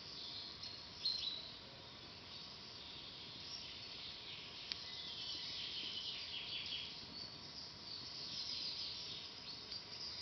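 Small birds chirping and singing in a forest, many short high calls overlapping, over a faint hiss. A single sharp pop from the campfire about halfway through.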